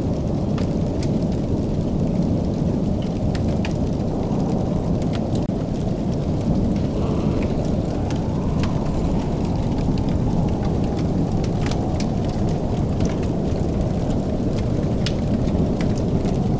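Wood fire crackling: a steady low rumble of burning with sharp pops and snaps scattered through it, roughly one or two a second.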